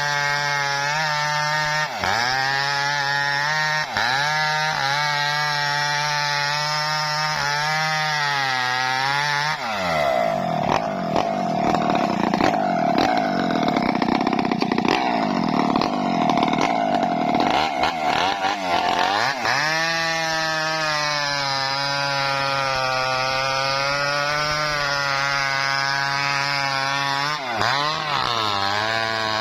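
Chainsaw engine running at high speed with brief dips about every two seconds, then bogging down under load for about ten seconds as it saws into a coconut palm trunk, then running freely again with one more dip near the end.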